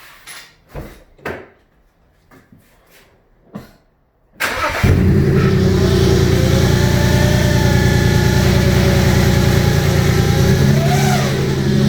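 A few faint clicks, then about four seconds in the BMW 335i E90's turbocharged straight-six starts and runs steadily with a high-pitched whine that wavers in pitch, briefly rising and falling near the end. The whine at start-up is the noise the owner is showing as a fault.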